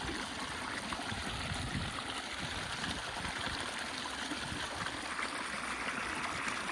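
Steady rushing and trickling of a flowing stream.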